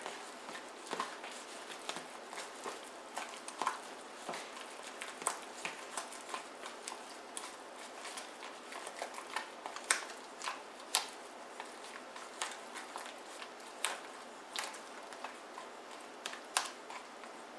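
A utensil clicking and scraping against a mixing bowl in quick, irregular taps as deviled egg filling of mashed yolks, mayonnaise and mustard is stirred.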